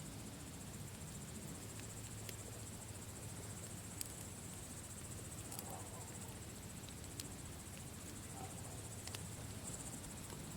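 Campfire crackling with a sharp pop every second or two, the strongest about four seconds in, over steady high-pitched cricket chirping.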